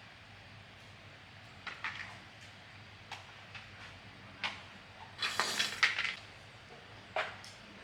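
Small metal parts clinking and knocking as they are handled during a repair, a few separate clinks, then a short dense clatter about five to six seconds in, and one more knock near the end.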